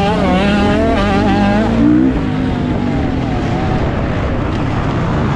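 Kawasaki KX450 motocross bike's single-cylinder four-stroke engine under race throttle, revs rising and falling quickly; the revs climb briefly about two seconds in, then drop and run lower and steadier.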